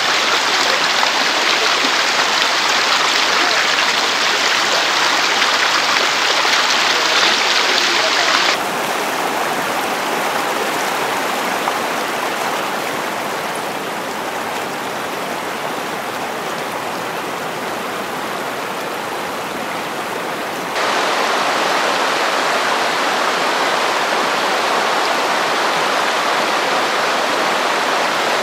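Rushing river water, a loud steady torrent. It drops abruptly to a softer level about a third of the way in and jumps back up about three quarters of the way through.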